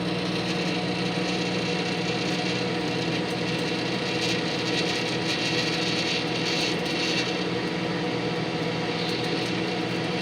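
Microwave oven running with discs inside, a steady hum.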